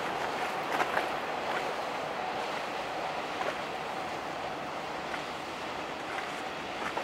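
A passing river passenger ship: a steady rush of water wash and diesel engine noise, slowly fading.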